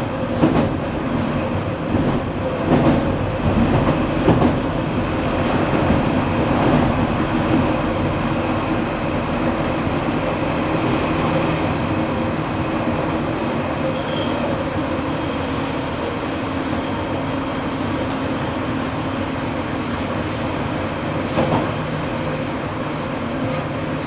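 JR Kyushu 815 series electric train running, heard from inside the car: a steady rumble of wheels on rail with clacks over the rail joints, more frequent in the first several seconds.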